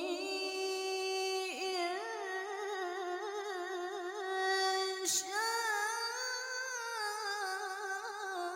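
A female Quran reciter singing a long, ornamented melisma in tilawah style: held notes that waver with vibrato and slide between pitches. There is a short break about five seconds in, after which she goes on at a new pitch.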